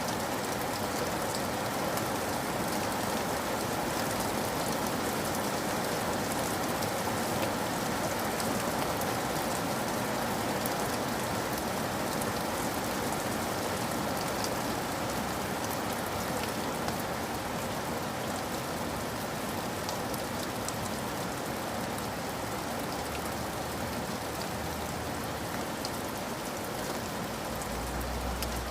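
Steady rain falling, with scattered individual drops ticking through it. A low rumble comes in near the end.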